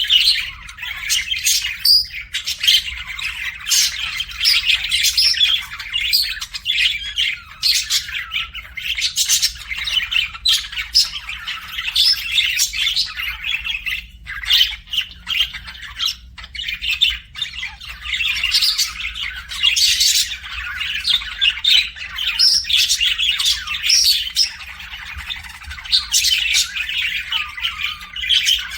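A flock of pet birds in an aviary, small parrots and parakeets, chirping and squawking continuously in many overlapping high calls.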